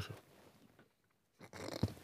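Someone chewing a mouthful of chocolate taken with a shot of cherry liqueur: faint at first, then wet chewing and small mouth clicks from about one and a half seconds in.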